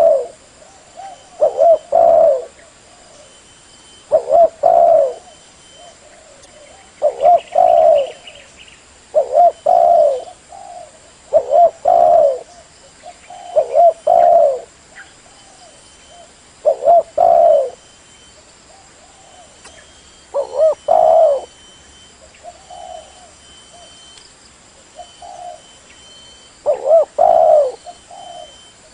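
Spotted dove (tekukur) cooing its repeated call phrase, one phrase every two to three seconds. The calls are quieter for a few seconds in the last third, then come loud again near the end.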